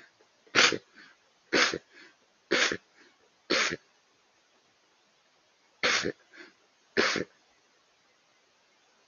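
Roe deer barking: six short, harsh barks about a second apart, four in a row, then a pause of about two seconds and two more, each with a faint echo after it.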